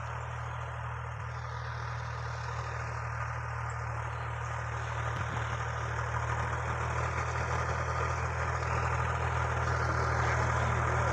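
Farm tractor's diesel engine running steadily while cultivating a field, growing gradually louder as it comes closer.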